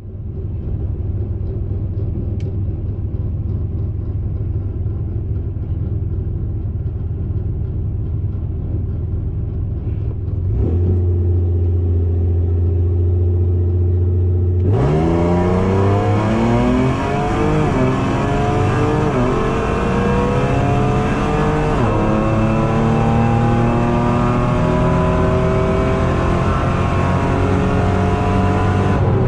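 A supercharged Ford Explorer's engine, heard from on board: idling, then holding a louder steady drone, then about fifteen seconds in accelerating hard. Its pitch climbs and falls back three times as it shifts up through the gears.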